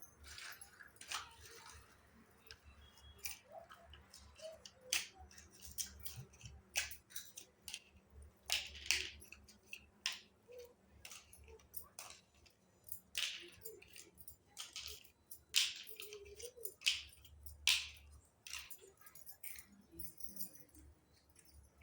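Pieces of a miniature toy kitchen set being handled and set down: irregular light clicks and clinks, a few sharper than the rest, over a faint low hum.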